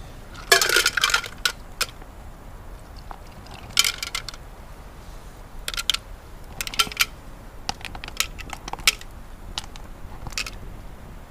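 Mussels being handled in a metal billy can: hard clinks and clatters of shell on shell and on metal, in short bursts. The biggest clatter comes about half a second in, with smaller ones scattered after.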